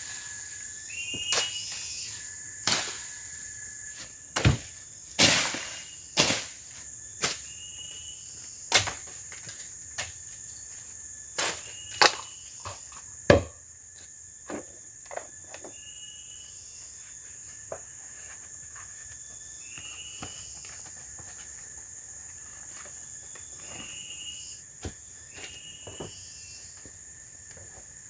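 Forest insects droning steadily at a high pitch, with short chirping calls repeating every few seconds. Over this, a series of sharp knocks or chops, irregularly spaced and tailing off about halfway through.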